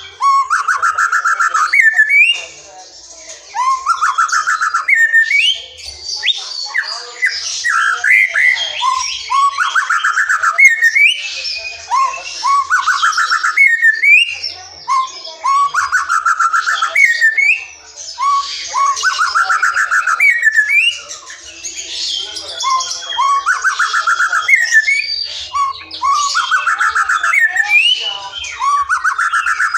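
White-rumped shama singing a loud, varied song of rising whistles and rich phrases, with a rapid buzzy trill that comes back every couple of seconds.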